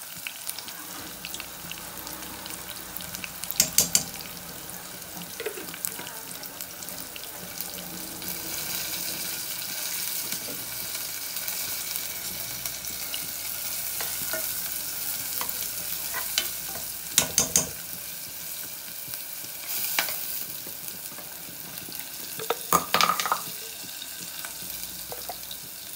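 Sliced onions and green chili frying in a non-stick saucepan, a steady sizzle. A metal spoon clinks sharply against the cookware in three short clusters.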